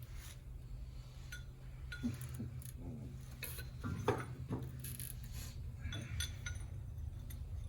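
Scattered light metallic clinks and taps of tools and parts being worked on a truck's front wheel hub, over a steady low hum.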